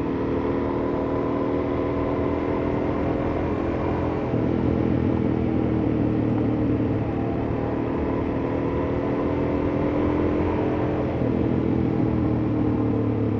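Suzuki DR-Z400S single-cylinder four-stroke engine running while the motorcycle is ridden, its pitch shifting about four seconds in and again near the end as the revs change.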